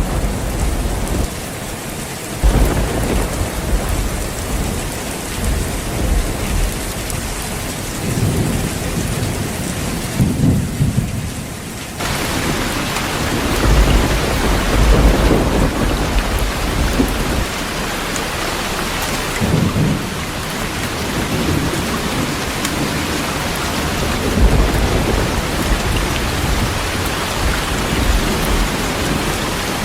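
Heavy rain falling steadily, with several rolling rumbles of thunder. The rain hiss jumps abruptly louder a little before halfway.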